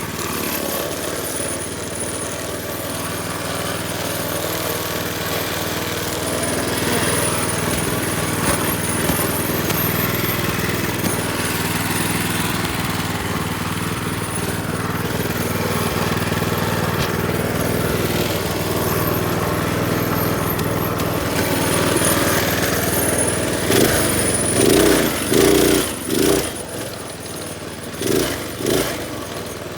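Minibike's small engine running steadily while being ridden, then rising and falling several times near the end as the throttle is opened and closed.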